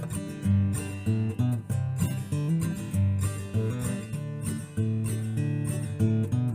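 Acoustic guitar music, strummed chords at a steady pace.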